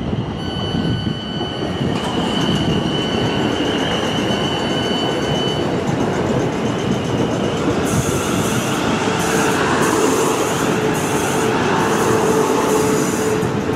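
A train running through the station on steel rails, with a steady high-pitched wheel squeal over the rumble for the first several seconds. In the second half a high hiss cuts in and out repeatedly, and a lower steady tone sounds over it.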